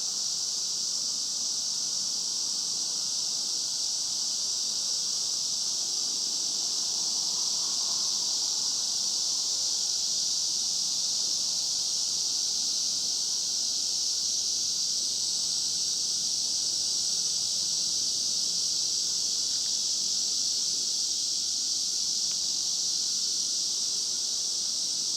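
Chorus of cicadas singing loudly, a steady, unbroken high-pitched hiss with no gaps. The uploader takes them for Japanese bear cicadas (kumazemi).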